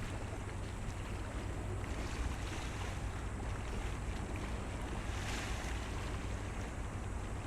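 Steady low rumble of a boat's engine with wind and water noise over it; a brief rush of hiss rises and fades about five seconds in.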